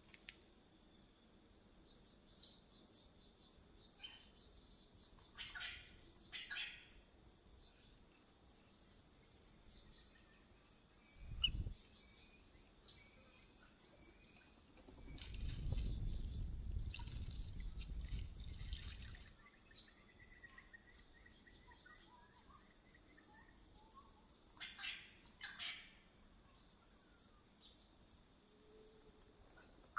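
Wild birds calling over a steady, fast, high-pitched chirping that repeats several times a second. A single knock comes about a third of the way in, and a low rumble swells and fades around the middle.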